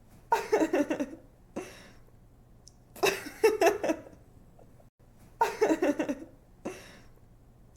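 A young woman laughing: three short fits of giggly laughter about two and a half seconds apart, each trailed by a brief softer giggle.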